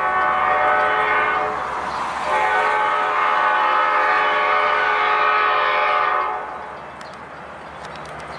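Train horn sounding two blasts: a short one of about a second and a half, then, after a brief gap, a longer one of about four seconds that cuts off.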